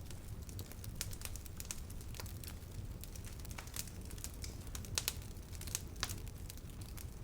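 Wood fire burning, with a low steady rumble of flame and irregular sharp crackles and pops of burning wood, a few louder snaps about five and six seconds in.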